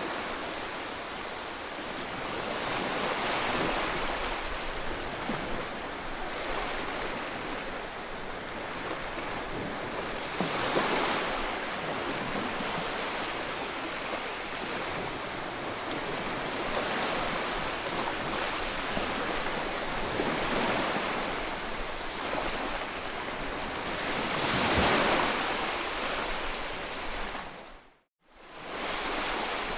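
Ocean waves breaking and washing on the shore, with the surf swelling several times. The sound fades out to silence near the end and fades back in.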